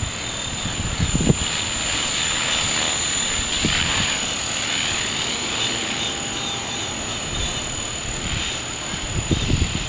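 Strong wind gusting, rushing louder about four seconds in and buffeting the microphone with low rumbling thumps about a second in and again near the end. A thin, steady high-pitched tone runs underneath.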